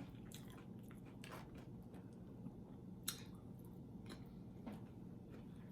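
Quiet chewing of food by the person eating, with a few faint, short mouth clicks.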